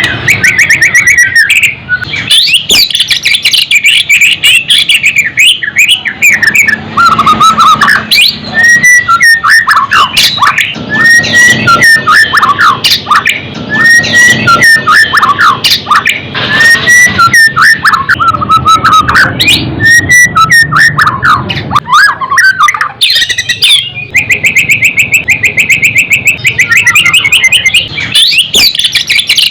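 White-rumped shama (murai batu) singing loudly and without pause: varied whistles and chatter, a run of short down-slurred phrases repeated about once a second through the middle, then a fast rapid trill near the end.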